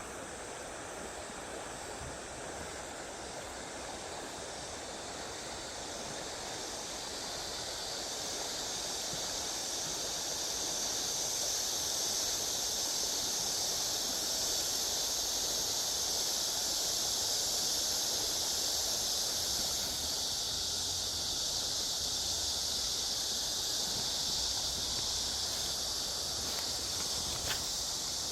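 Steady riverside ambience: running water with a high, even insect chorus that grows louder about eight seconds in, and a couple of faint ticks near the end.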